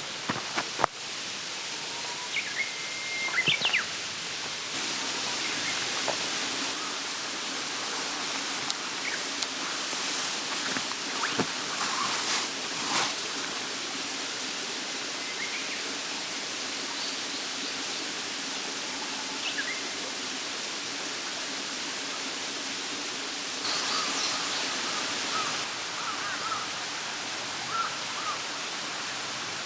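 Mountain stream running steadily, with a few short bird calls and occasional sharp clicks over it.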